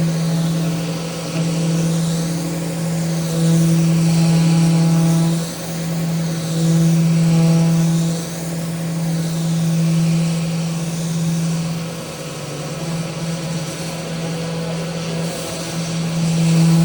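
Electric power sander running on a mounted wooden handrail: a steady motor hum with abrasive hiss, swelling and easing every second or two as the sander is pressed and moved along the rail.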